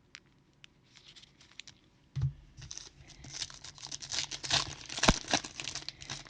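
Foil trading-card pack wrapper being torn open and crinkled by hand. After a few faint clicks, a thump about two seconds in starts a dense crackling run that lasts to the end, with one sharp snap about five seconds in.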